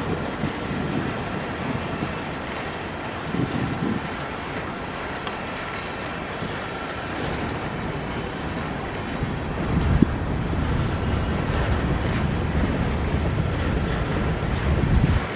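A CSX manifest freight train's cars rolling past with a steady rumble of wheels on rail. There is a sharp knock about ten seconds in.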